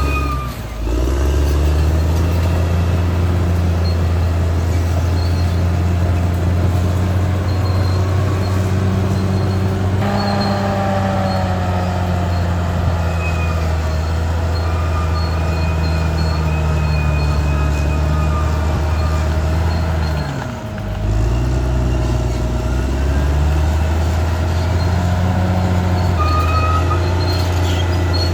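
Caterpillar D6R XL bulldozer's diesel engine running steadily at working revs. Its note dips and recovers briefly twice, once just after the start and once about two-thirds of the way through.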